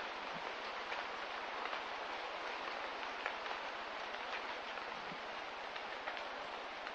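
Light rain: a steady hiss of rain falling, with scattered faint drips and ticks.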